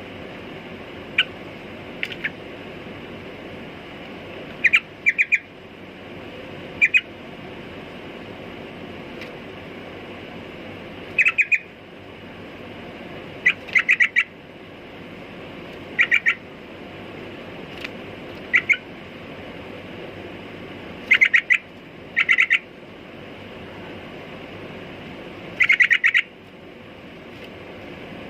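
Yellow-vented bulbul (trucukan) calling in short bursts of sharp chirping notes, two to four at a time, repeated every few seconds over a steady background noise.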